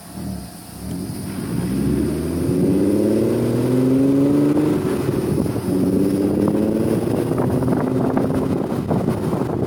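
Volkswagen R32's VR6 engine accelerating, its pitch climbing for a few seconds, dropping at a gear change about five seconds in, then climbing again. Wind and road noise build as the car gathers speed.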